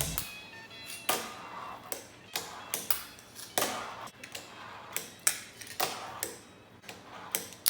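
Wooden fingerboard being skated: a dozen or so sharp clacks at uneven intervals from tail pops, landings and truck hits.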